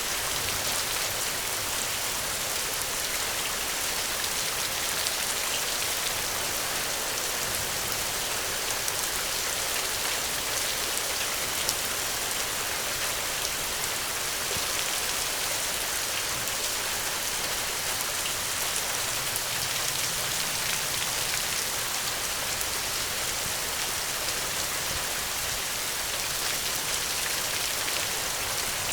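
Steady rainfall, an even hiss of drops with fine patters of individual drops striking a surface.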